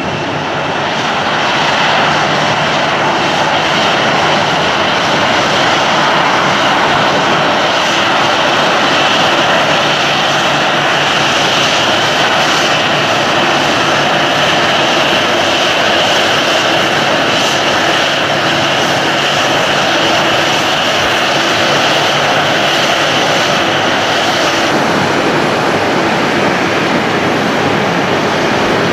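Boeing 737-800's CFM56 turbofan engines running steadily at taxi power: a loud rush with a high, steady whine. The whine drops out about 25 seconds in.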